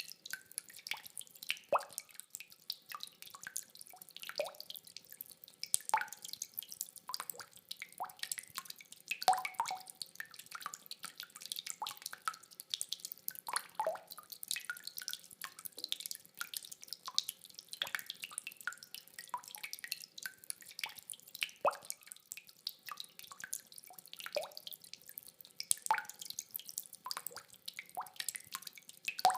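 Rainwater dripping: many separate drops falling at an irregular pace, several a second, some with a short pitched plink. No thunder is heard.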